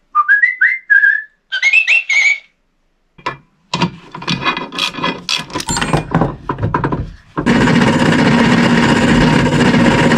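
A few short, rising whistled notes, then a run of clicks and knocks. About seven seconds in, an electric drill with a bimetal hole saw starts cutting into steel and runs steadily and loudly.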